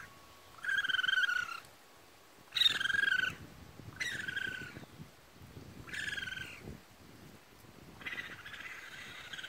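Baby raccoon kits crying: about five high, wavering calls, each under a second long, with short pauses between them and a longer, fainter call near the end.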